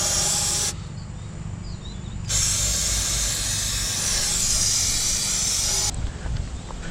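Aerosol cleaner spray hissing in two bursts: a short one at the start, then a longer one of about three and a half seconds, used to clean grease and oil from the axle housing.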